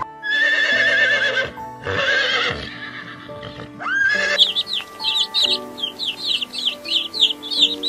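A horse whinnying twice, each call long and wavering, followed from about halfway in by a run of rapid high peeps from baby chicks, about four or five a second. Soft background music plays throughout.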